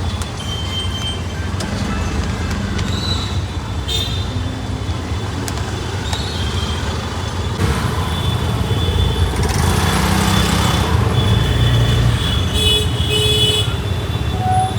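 Road traffic: a steady engine rumble with short horn toots now and then, and a louder swell of passing-vehicle noise about ten seconds in.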